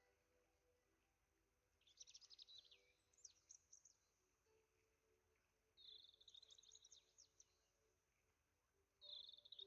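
Faint songbird song: three short, fast twittering phrases, about two seconds in, about six seconds in, and near the end, over a quiet steady background.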